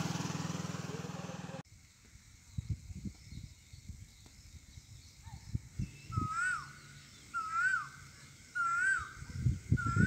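A bird calling over and over, each call a short note that rises and falls back, about once every second and a quarter, starting about six seconds in. Irregular low rumbles run underneath. Before an abrupt cut in the first second and a half there is a steady low hum with voices.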